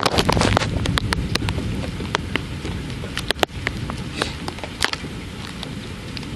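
Rain during a thunderstorm: many separate drops striking a hard surface close by, over a low rumble that dies away during the first couple of seconds.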